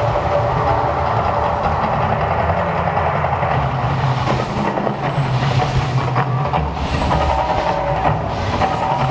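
Loud, continuous rumbling noise with a hiss over it, steady throughout and without speech.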